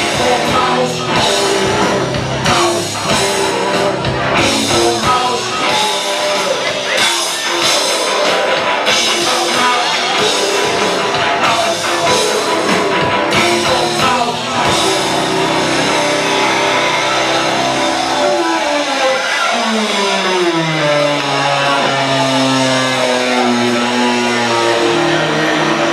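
Loud rock music with guitar and drums; the drum hits stop about fifteen seconds in, leaving sustained tones that slide down in pitch and then hold.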